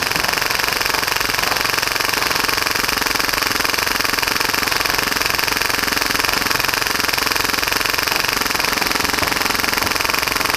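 Full-auto HPA Tokyo Marui Hi-Capa airsoft pistol firing a continuous stream at about 30 rounds per second, a rapid, even rattle that does not let up.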